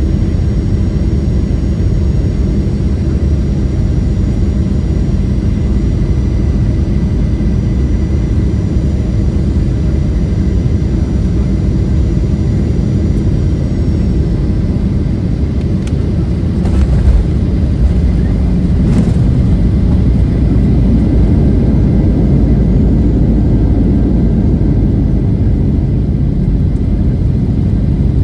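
Cabin noise in a Boeing 737-700 landing: a steady drone of its CFM56-7 engines and airflow, with a faint high whine that falls away about halfway. A little past the middle comes a sharp thump, then a louder rumble, typical of touchdown and the rollout on the runway.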